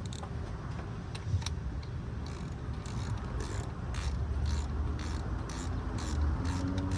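Hand ratchet wrench being worked in short strokes, its pawl clicking two to three times a second and a little faster near the end, over a low steady rumble.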